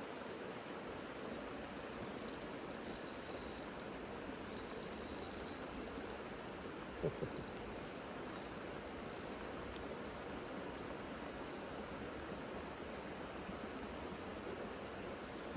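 Fishing reel clicking in several short bursts of fine rapid ticks while a hooked carp is played, over a steady hiss, with a single short knock about seven seconds in.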